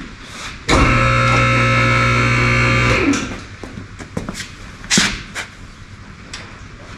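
A motor runs at one steady pitch for about two seconds, starting under a second in and stopping abruptly, followed by several short metallic knocks and clanks, the loudest about five seconds in.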